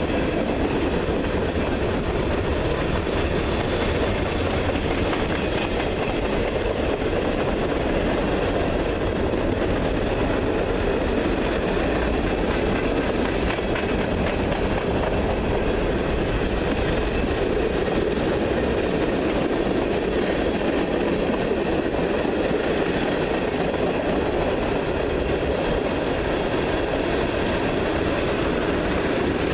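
Train cars rolling past: a steady rumble of wheels on rail with clickety-clack over the joints, continuing evenly throughout.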